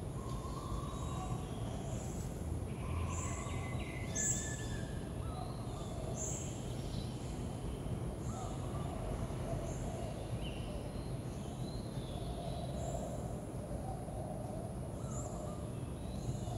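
Birds chirping, short high calls about once a second, over a steady low background noise.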